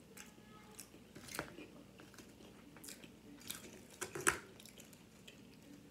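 Chewing a bite of breaded fried chicken tender close to the microphone: scattered soft crunches and wet mouth clicks, with a sharper click a little past four seconds.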